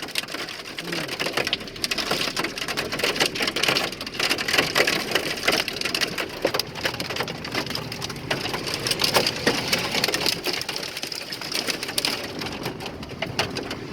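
Hailstones pelting a vehicle's windows and body, heard from inside: a dense, continuous clatter of hard impacts that does not let up.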